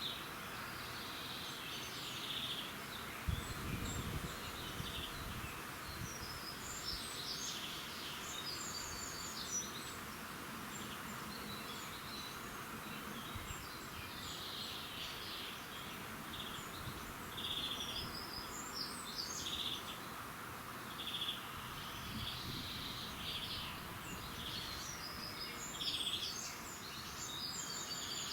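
Several small birds chirping and trilling on and off over a steady background hiss, with a brief low rumble about four seconds in.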